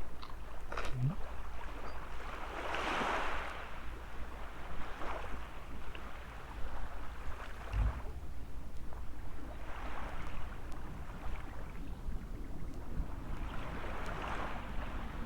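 Small waves washing onto a sandy beach, swelling and fading three times. Wind rumbles on the microphone throughout.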